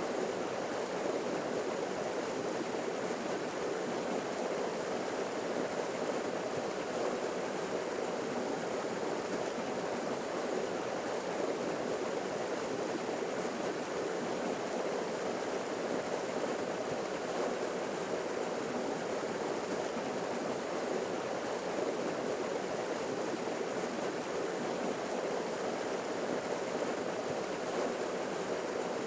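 Small forest waterfall splashing and rushing in a steady, unbroken stream.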